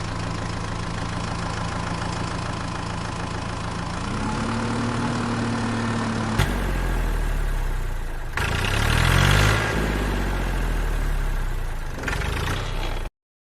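Engine running steadily, in pieces joined by abrupt cuts. Its pitch steps up about four seconds in and rises and falls briefly a little after the middle, and it cuts off suddenly near the end.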